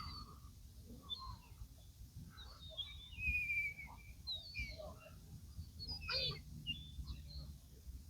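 Birds chirping and calling: a run of short high chirps, with a longer falling whistle about three seconds in and a burst of calls about six seconds in.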